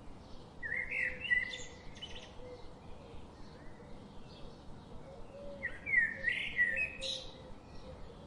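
Wild songbirds chirping, with one bird singing two loud, quick warbling phrases of rising and falling notes, the first about a second in and the second about five seconds later, over fainter chirps from birds further off.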